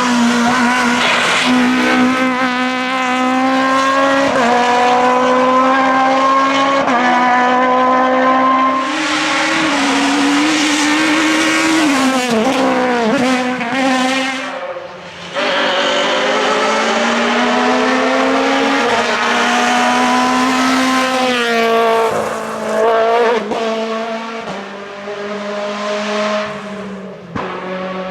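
Naturally aspirated Groupe F2000 rally car engines at full attack: the revs climb in steps through upshifts, then fall sharply under braking twice, with a rushing noise of tyres over parts of it.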